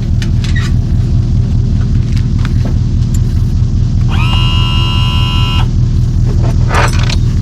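A motor engine idling with a steady low rumble. About midway, a steady high-pitched tone sounds for about a second and a half, and a few short knocks come and go.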